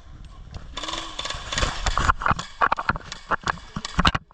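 An irregular series of sharp clicks and knocks, a few a second, over a rustling noise, with one loud knock near the end.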